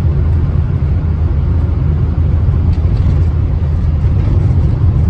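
Austin Allegro's A-series engine running steadily on the move, heard from inside the cabin, with a low drone of engine and road noise.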